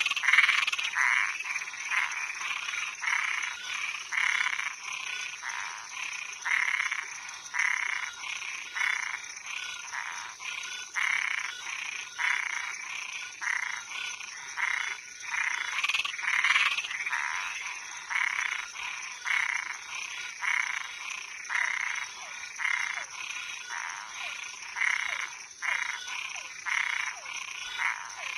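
Night chorus of frogs and treefrogs: short croaking calls repeated over and over, about one to two a second, overlapping one another, over a steady high-pitched drone.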